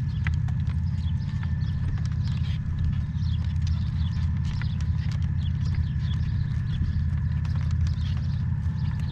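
A horse's hooves walking on the ground, with a few faint hoof steps, over a steady low hum that is the loudest sound, and faint high chirps above.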